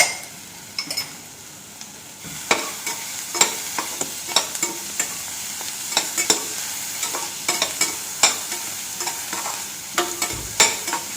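Chopped onions and green chillies frying in oil in a pan, sizzling, as a spoon stirs them. About two seconds in, the stirring picks up and the spoon clicks against the pan roughly twice a second.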